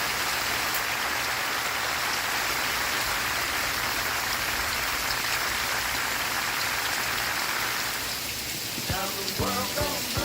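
Steady rain falling, an even hiss. About nine seconds in, the rain thins and music with pitched notes comes in over it.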